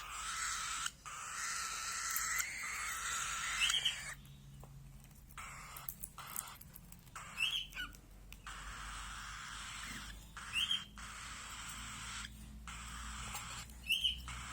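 A bird giving a short, sharp chirp four times, roughly every three and a half seconds, over a steady hiss that comes and goes.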